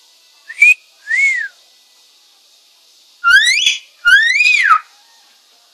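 Talking mynah bird whistling: two short, softer whistles, then two loud whistles that each rise and then fall in pitch.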